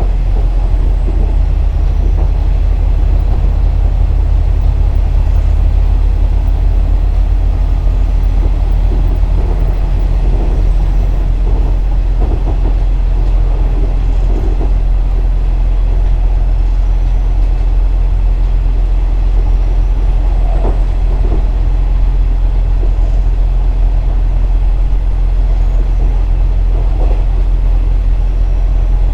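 KiHa 47 diesel railcar running, with its underfloor diesel engine making a steady, even drone and wheel-and-rail rumble over it.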